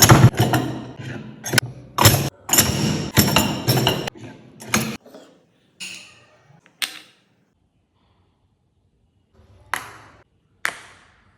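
A run of sharp knocks, clicks and clatter from hard parts being handled and pressed while making photo fridge magnets. It is dense for about the first five seconds, then thins to a few separate knocks a second or so apart.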